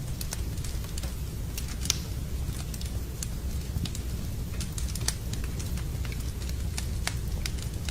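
Wood campfire crackling, with sharp irregular pops several times a second over a steady low rush.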